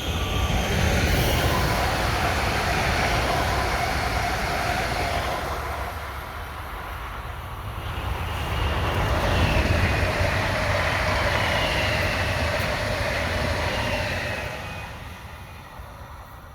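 Train passing on the line, a loud rush of wheels on rail over a steady low rumble, with faint whining tones on top. It swells twice, dipping about six seconds in, and fades away near the end.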